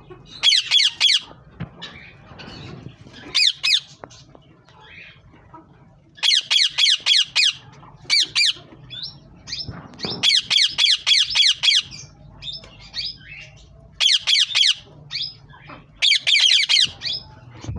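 Green ringneck parrots (rose-ringed parakeets) squawking in repeated rapid, shrill bursts of several quick notes each, with short pauses between the bursts.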